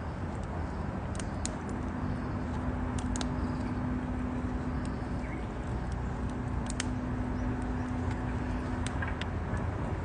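Campfire burning, with scattered sharp crackles and pops over a steady rumble, and a steady low hum through most of it.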